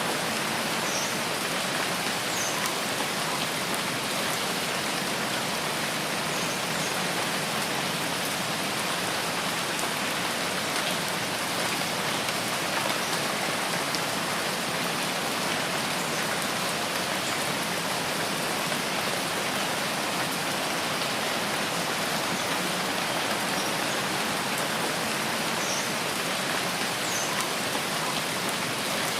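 Steady heavy rain falling in a forest, an even, unbroken hiss, with a few faint short high chirps here and there.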